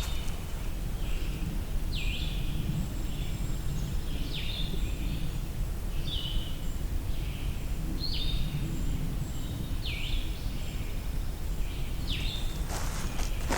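Woodland birdsong: short, high, down-slurred phrases repeated about every two seconds over a steady low background rumble. Among them is a far-off trill that the birder takes for a dark-eyed junco.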